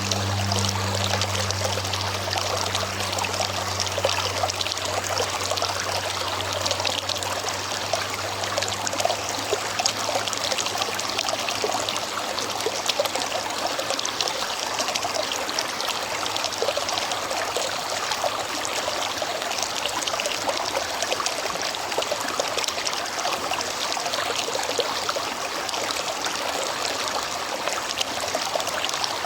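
River water flowing steadily, a continuous rush and trickle. A low hum underneath fades away over the first ten seconds or so.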